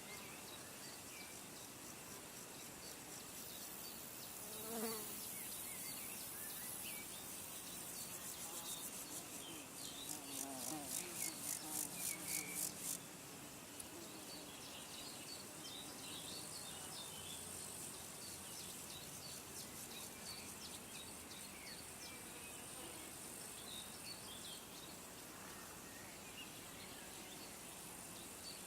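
Outdoor nature ambience of buzzing and chirping insects, with scattered short bird chirps. Past the middle, a fast pulsing trill runs for about three seconds and then stops suddenly.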